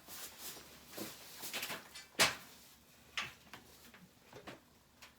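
A few sharp knocks and clicks of parts and tools being handled during an air-conditioner panel fitting, the loudest a single knock about two seconds in.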